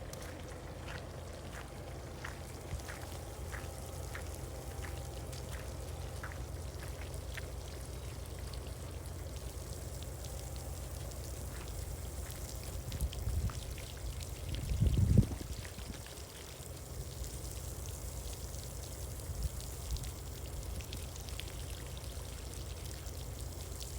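Steady rushing of running water, with the regular soft clicks of footsteps over the first several seconds and a brief low rumble a little past the middle.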